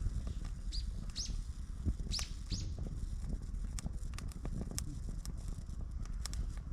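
Wood campfire crackling and popping in irregular sharp snaps over a low steady rumble. Small birds chirp four times in the first half.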